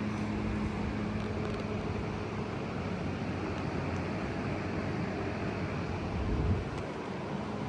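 Steady road and engine noise of a moving car heard from inside the cabin, with a constant low hum.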